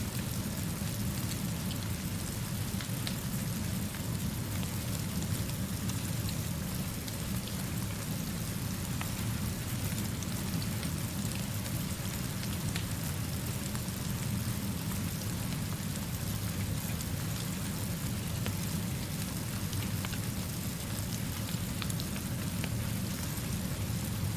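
Steady rainfall with scattered faint drop ticks over a constant low rumble.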